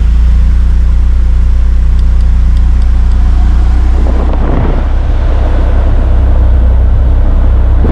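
Honda S2000's swapped-in K-series four-cylinder idling steadily on a cold start. About four seconds in a rushing noise rises over the idle as the air conditioning comes on, and the idle holds steady, kept up by a solenoid valve that feeds extra air into the intake manifold when the AC engages.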